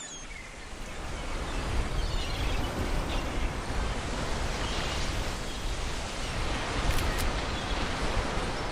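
Ocean surf washing on a shore: a steady rush of waves with a heavy low rumble, rising and falling a little.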